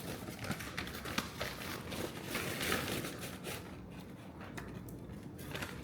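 Takeout food packaging rustling and crinkling, with many scattered sharp clicks and crackles, as the food is handled. The rustle is densest in the first half.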